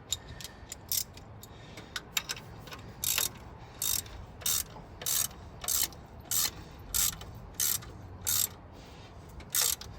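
Ratchet wrench clicking as it is worked on an exhaust manifold bolt: a few light clicks at first, then from about three seconds in a steady run of short ratcheting bursts, roughly three every two seconds, one per stroke.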